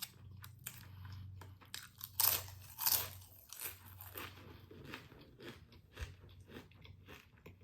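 Close-miked crunchy chewing and biting of food, with the two loudest crunches about two and three seconds in, followed by steady softer chewing.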